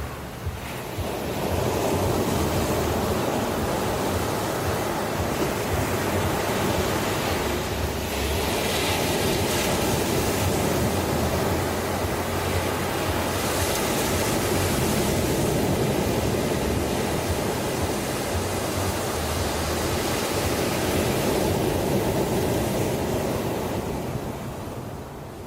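Ocean surf: waves breaking and washing in a steady rush that swells up about two seconds in and eases off near the end.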